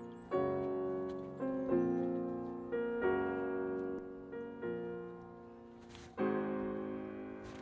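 Background piano music: slow chords struck roughly every second and a half, each fading away before the next. A brief hissing noise sounds about six seconds in.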